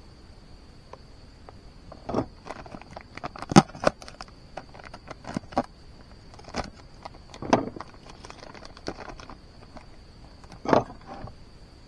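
Scattered clinks, knocks and rattles of small hard objects being handled, the loudest knocks about a third of the way in and near the end, over a faint steady high-pitched tone.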